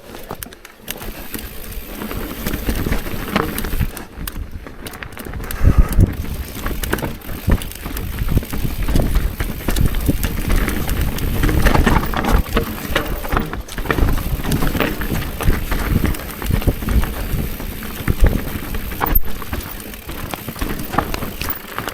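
Bicycle ridden over rough ground: a continuous rumbling, rattling noise broken by many knocks and jolts.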